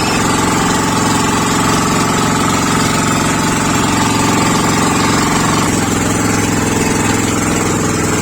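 Boat engine running steadily under way, a loud, fast, even pulsing drone. A higher tone in it drops out about two-thirds of the way through.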